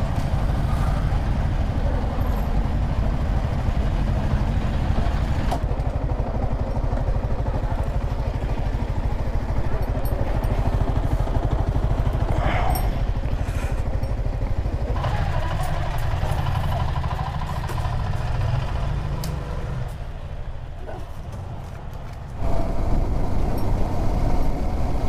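Yamaha R15 V4 motorcycle engine running on the move, picked up on the rider's action-camera microphone. It drops quieter for a few seconds near the end, then picks up sharply again.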